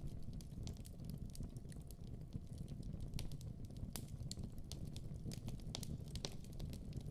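Wood fire burning in a fireplace: scattered sharp pops and crackles over a steady low rush of flame.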